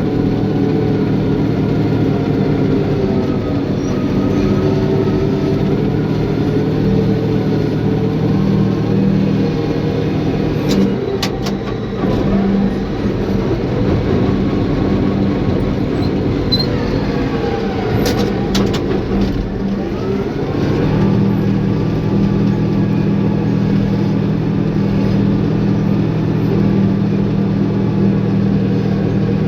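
Caterpillar bulldozer's diesel engine running steadily. Its note wavers and drops for about ten seconds in the middle, and a few sharp knocks come twice.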